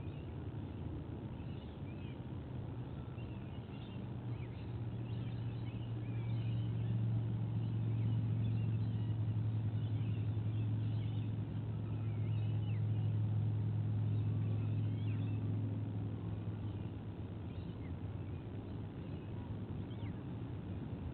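Low, steady engine drone that swells over several seconds and then fades, as of a motor passing at a distance, with faint high bird chirps scattered over it.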